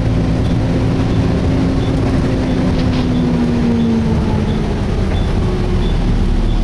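Volvo B7TL double-decker bus engine and its cooling fan running steadily, heard from inside the passenger saloon, with no screeching from the fan. The engine note drops slightly about four seconds in.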